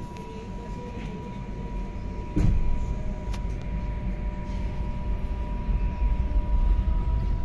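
Electric passenger train heard from inside the carriage as it pulls away from a station: a sharp thump about two and a half seconds in, then a louder low rumble and a faint motor whine rising in pitch as it gathers speed, over a steady high electrical tone.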